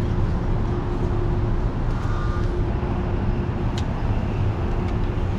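Vehicle engine idling: a steady low rumble with a constant hum over it, and a light click about four seconds in.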